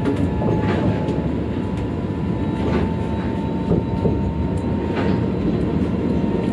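Sydney light rail tram running between stops, heard from on board: a steady low rumble with a thin, steady high whine and a few faint clicks.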